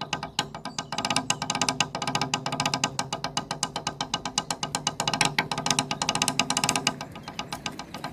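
Drumstick playing a fast, even run of strokes on a drum, each hit ringing with a steady pitch. It grows louder about a second in and eases off briefly near the end.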